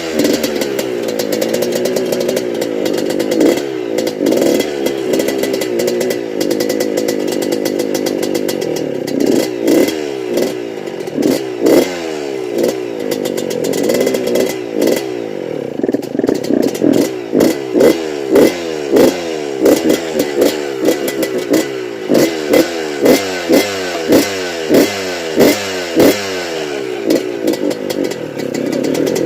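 1993 Suzuki RM125 dirt bike's two-stroke single-cylinder engine revved up and down over and over, with quick short blips of the throttle coming about once a second in the second half.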